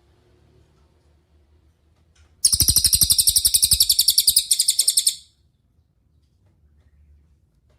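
Cililin songbird giving one rapid, very high-pitched trill of fast repeated notes, lasting about three seconds, starting a couple of seconds in, with a brief break shortly before it ends.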